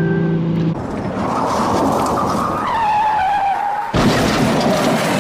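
Infiniti Q50 drifting through a wet corner: the engine runs hard while the spinning rear tyres hiss and skid on the wet road. The sound changes abruptly about four seconds in.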